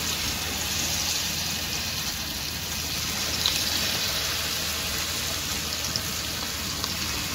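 A piece of marinated, flour-coated chicken sizzling in hot oil: a steady hiss with a few light pops.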